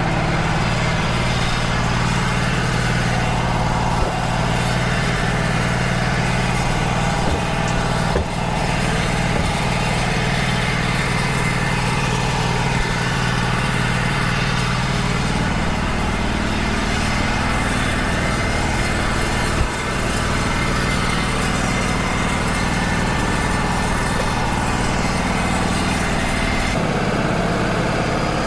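Wood-Mizer LT35 HD portable band sawmill running steadily, its engine and band blade a constant loud drone; the engine note shifts about halfway through.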